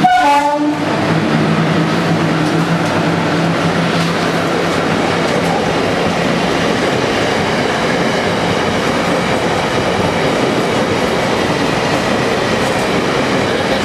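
Train running past at close range: a loud, steady rumble of wheels on the rails. A low hum in the first few seconds fades out about five seconds in.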